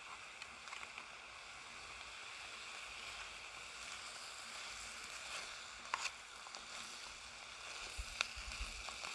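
Diced meat and onion sizzling faintly in a titanium pan over a paraffin-wax buddy burner, a steady hiss. A metal spoon clicks lightly against the pan a couple of times, about six and eight seconds in.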